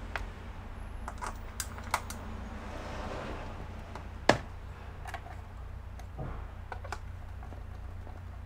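Scattered light clicks and taps of a screwdriver and small screws being handled and driven back in, with one sharper click about four seconds in, over a steady low hum.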